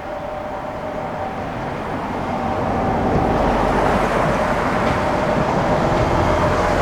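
Seibu 8500 series 'Leo Liner' train running, its Hitachi IGBT-VVVF inverter giving a steady two-note whine over the rumble of the running gear. The sound grows louder over the first three seconds, then holds steady.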